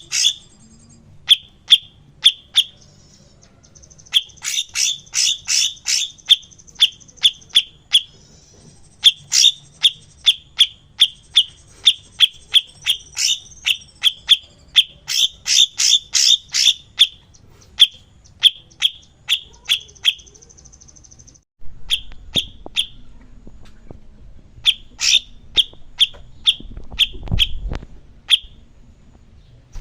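Cucak cungkok singing: long series of short, sharp, high chip notes, several a second, broken by buzzy trills. A short break about two-thirds through, after which the background changes, suggests an edit in the recording. A low rumble swells briefly near the end.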